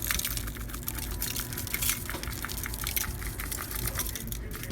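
Meat sizzling on a grill: a steady hiss with many small crackles and pops.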